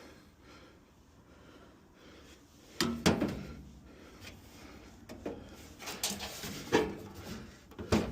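Metal clunks and scraping as sheet-metal furnace parts are handled and knocked into place, with a few sharp knocks from about three seconds in.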